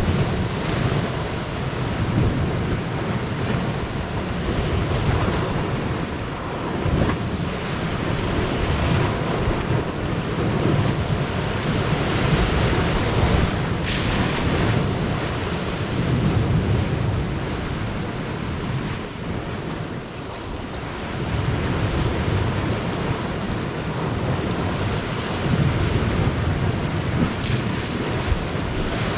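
Big ocean waves breaking and surging, a continuous crashing roar that swells and eases, with wind buffeting the microphone in gusty low rumbles.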